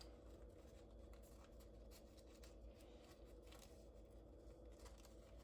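Near silence with faint, scratchy rustling and small clicks as a cut plastic bag is jammed down into the engine.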